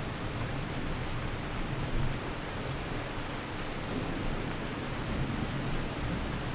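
Steady rain with a low, continuous rumble underneath.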